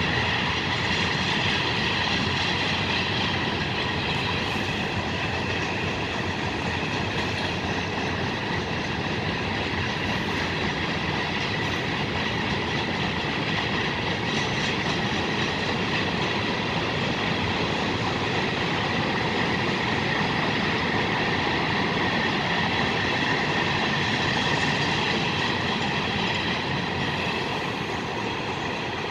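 A train's cars rolling past on the track, a steady continuous rail noise that eases a little near the end.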